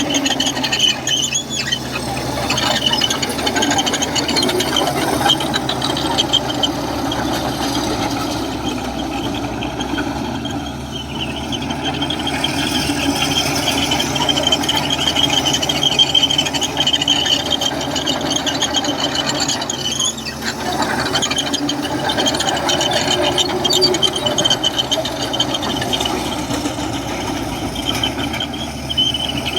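Komatsu crawler bulldozer at work, its diesel engine running under a continuous high-pitched squeal that wavers in strength.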